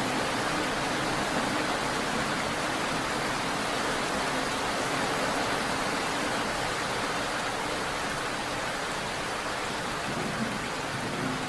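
Steady rain falling: an even, unbroken hiss with no distinct drops or pauses.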